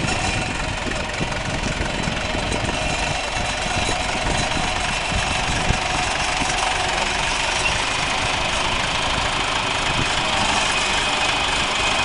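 John Deere 410 backhoe's diesel engine idling steadily.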